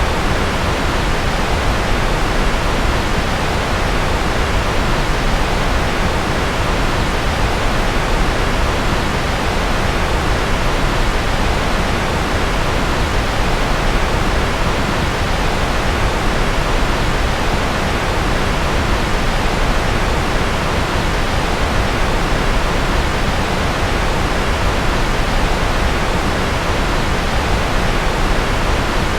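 Steady, unchanging rushing noise from a sleep white-noise track, heaviest in the low end and thinning toward the top, in the manner of a distant rocket or jet engine.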